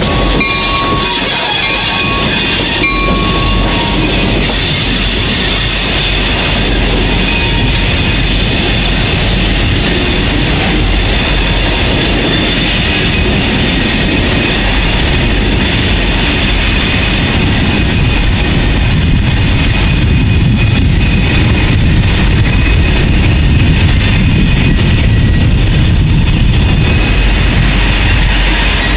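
Freight train with boxcars moving on the track, with thin high-pitched wheel squeal in the first few seconds and a low rumble that grows louder near the end.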